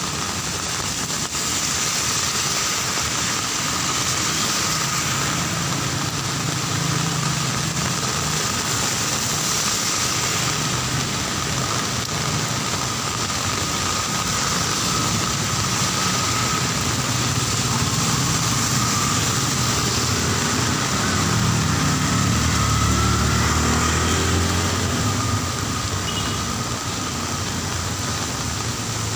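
Heavy rain falling steadily, with the low running of motor vehicle engines in the street that grows louder for a few seconds about two-thirds of the way through.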